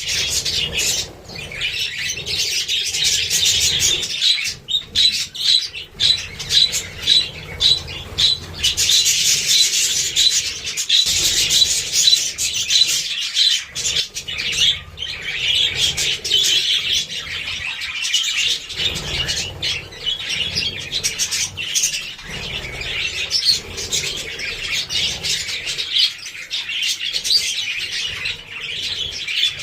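A flock of budgerigars chattering and chirping continuously, with many short, sharp clicks mixed in.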